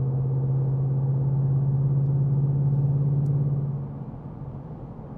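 2026 Mustang GT's 5.0L V8 running under steady throttle with a deep, even drone, then dropping away about four seconds in as the throttle is let off.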